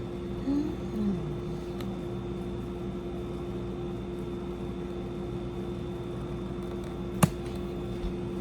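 Window air conditioner running with a steady hum carrying several constant tones. Two short sliding pitched sounds come about half a second and a second in, and a sharp click about seven seconds in.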